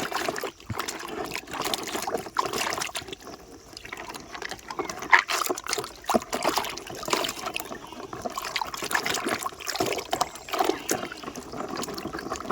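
Water splashing and trickling as a muddy toy truck is washed by hand, with small irregular knocks and clicks from the toy being handled.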